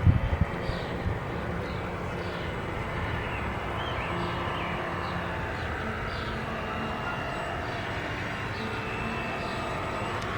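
Radio-controlled model boat running on the water: a steady motor drone with water noise, its pitch wandering a little. A few knocks in the first second.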